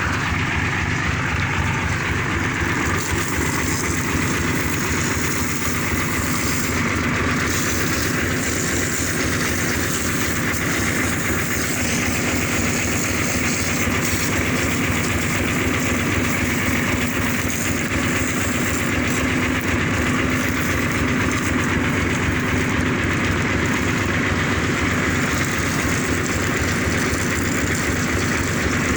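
Vehicle engine running steadily, with a fast, even low pulse and no change in speed.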